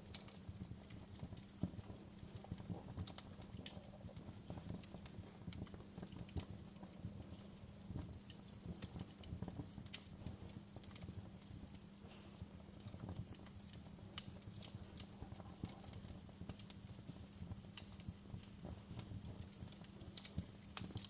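Wood fire crackling in a fireplace: frequent, irregular sharp pops and snaps over a steady low rumble of burning logs.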